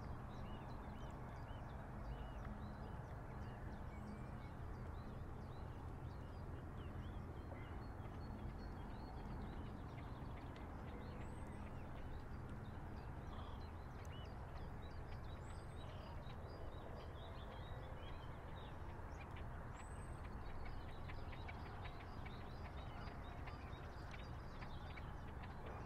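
River water washing against a breakwater, with water birds calling throughout in many short chirps and a few high whistles every few seconds. A low steady hum runs underneath.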